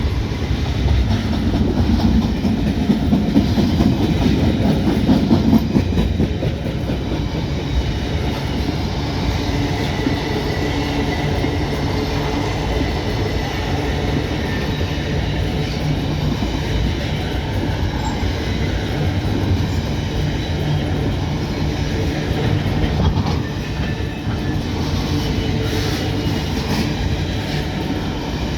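Loaded freight train cars rolling past on the track: a steady rumble with wheel clatter, louder for the first few seconds.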